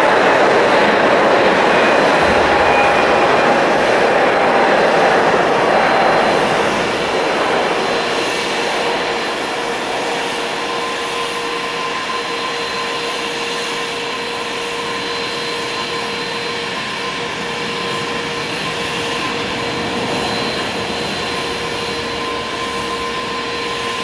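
Jet engine noise from an ANA Boeing 777-200 departing on take-off. The sound eases over the first seven seconds or so, then holds at a steady, lower level.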